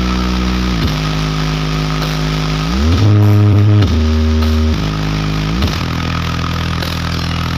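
A huge horeg sound system of ten subwoofer boxes blasting a bass-heavy DJ jingle. Deep, distorted bass notes hold, then slide up or down to a new pitch about once a second.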